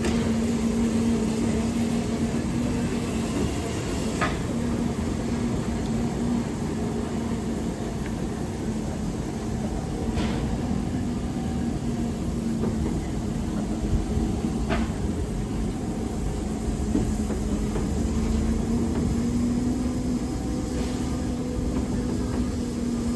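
Railway locomotive standing and running with a steady hum over a low rumble, with a few sharp clicks or knocks.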